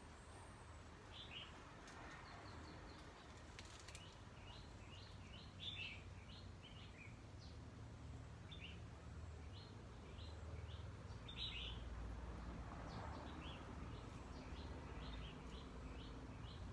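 Small birds chirping faintly: short high notes, often in quick runs of three or four, with two louder chirps about six and eleven seconds in, over a low steady background rumble.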